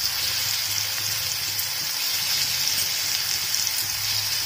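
Spice-marinated paneer cubes shallow-frying in hot oil, a steady sizzle as more cubes are laid into the pan by hand.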